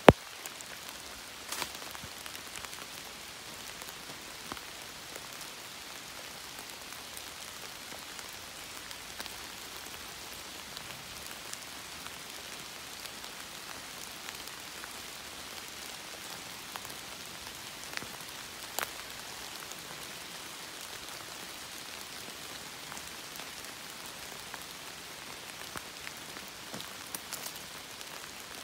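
Steady rainfall, an even hiss with scattered louder drop ticks. A single sharp click right at the start.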